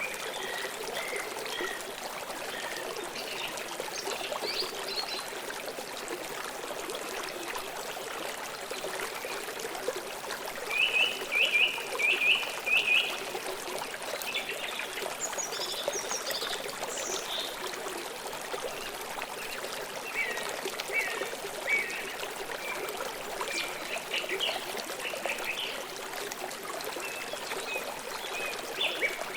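Flowing stream water running steadily, with birds chirping over it: a loud run of four or five sharp notes about eleven seconds in, higher twittering a few seconds later, and more short chirps in the second half.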